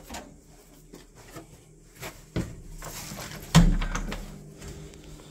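Scattered light knocks and clicks of things being handled, with one heavy thump about three and a half seconds in, followed by a faint steady hum.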